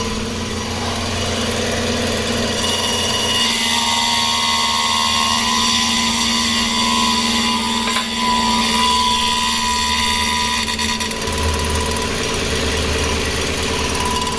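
Chrysler Sebring 2.7-litre V6 engine idling, with a steady whine over it that is traced to the power steering pump.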